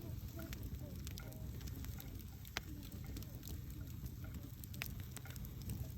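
Campfire burning: wood crackling with scattered sharp pops at irregular intervals over a low, steady rumble.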